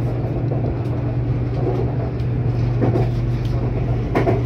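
Bangkok BTS Skytrain carriage running, heard from inside: a steady low hum over an even rush of running noise.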